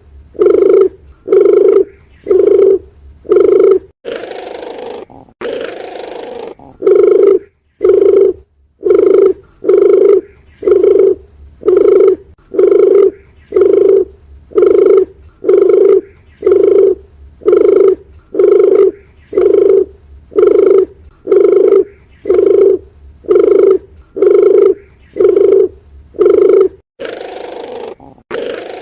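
Doves cooing: a steady series of low, even coos at about one a second, broken twice by a longer, rougher stretch.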